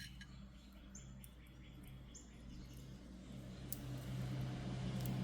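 Faint short bird chirps over a low steady hum that grows a little louder past the middle, with a couple of small clicks.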